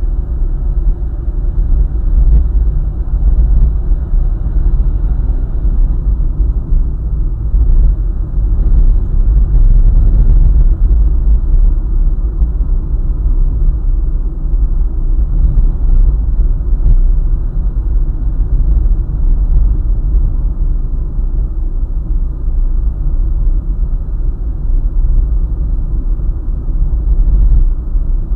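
Steady low rumble of a vehicle driving along a highway, engine and tyre noise running on without a break.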